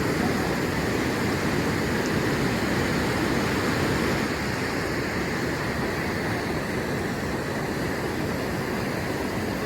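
Steady rushing of fast river water pouring through rapids, a loud, even roar of water with no breaks.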